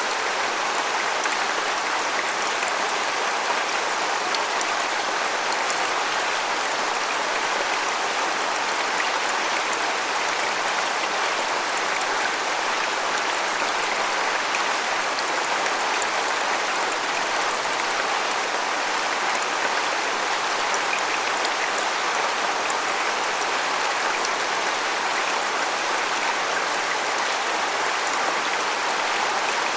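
Waterfall: falling water splashing steadily as an even, hissing rush with little deep rumble.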